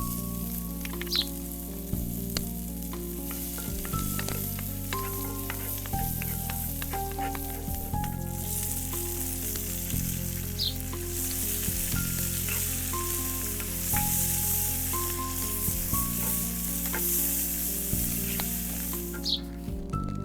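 Food sizzling as it fries in oil in a pan, the sizzle getting louder from about eight seconds in and easing just before the end, with scattered clicks of a utensil stirring. Soft background music with held notes plays underneath.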